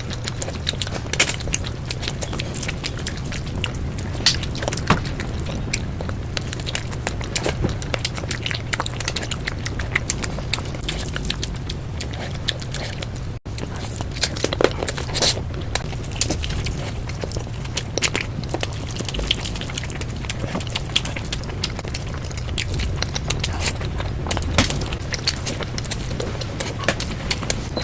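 Close-miked chewing and wet mouth sounds of someone eating rice and curry, a dense run of sharp smacks and clicks. There is a brief break about halfway through.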